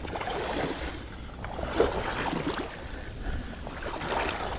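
Water sloshing and swishing irregularly around the legs of a person wading through water.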